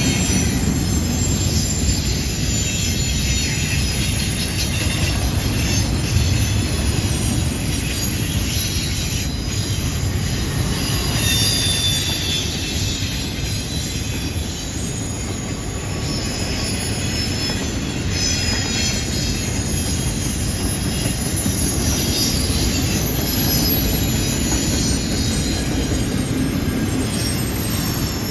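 CN intermodal freight train rolling past on a curve: a steady rumble of wheels on rail with thin, high wheel squeal rising and fading at times as the flanges grind through the curve.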